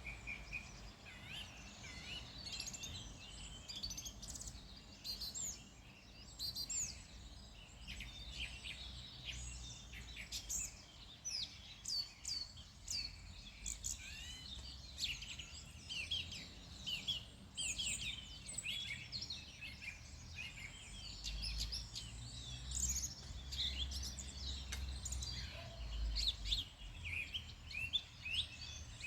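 Several songbirds chirping and singing, with many quick high notes overlapping throughout, over a low steady rumble.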